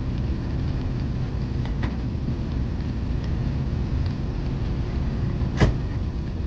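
Airbus A380 airliner rolling on the ground, heard from inside the cabin as a steady low rumble with a few faint clicks. A single sharp knock comes about five and a half seconds in.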